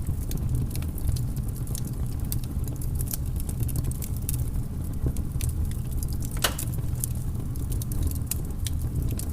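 Wood fire burning in a fireplace, crackling with irregular small snaps and pops over a steady low rumble, and one louder pop about six and a half seconds in.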